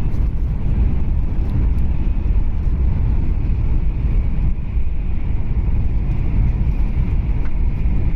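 Steady low rumble of a Tokaido Shinkansen train running at speed, heard from inside the passenger cabin.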